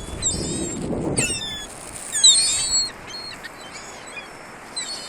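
A flock of gulls calling: many short, high, sliding cries that overlap. They are thickest in the first half and loudest a little after two seconds in, then thin out. A low rush of noise underlies the first second.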